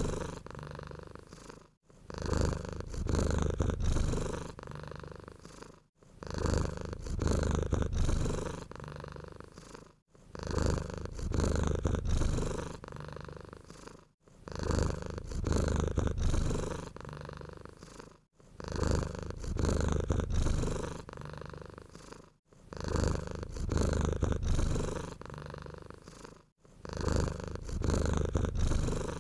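Domestic cat purring steadily, a low rumble that swells and fades in even cycles about every four seconds, with a brief pause between cycles.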